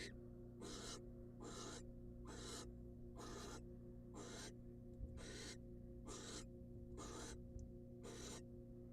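Barn owl giving rasping, hissing snore calls, repeated about once a second in a steady series, over a steady low electrical hum.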